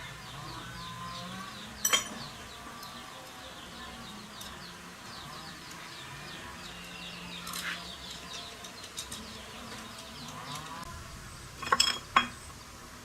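Continuous background chirping of small birds, broken by one sharp clink about two seconds in and a quick run of three clinks near the end, the loudest sounds here.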